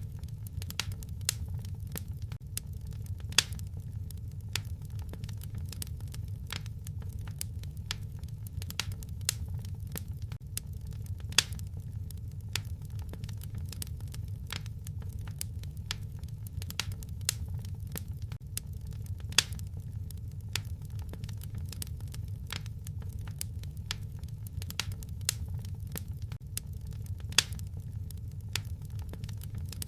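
Wood fire in a fireplace crackling steadily over a low rumble, with a few louder pops.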